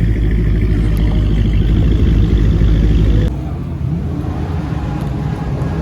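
Car engines and exhausts rumbling at close range, loud and low; a little over three seconds in the sound cuts abruptly to a quieter, different engine sound.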